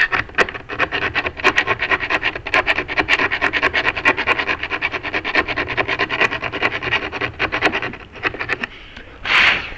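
Fast, rhythmic scraping strokes of a hand tool working on metal door hardware, several a second, with a ringing metallic tone. A short, louder rush of noise comes near the end.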